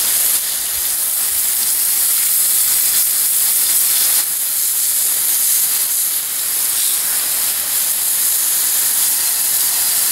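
Water spraying steadily from a hose onto an old cast-iron drill press, rinsing off engine degreaser: a loud, even hiss of spray hitting metal.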